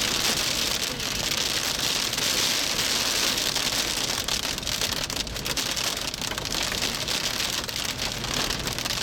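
Hail and heavy rain pelting a vehicle, a dense, steady rattle of many small hits.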